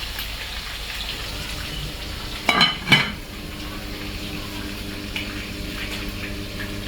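Chicken pieces frying in hot oil in a pan with a steady sizzle. About two and a half seconds in, two loud metal clanks half a second apart, from cookware being handled.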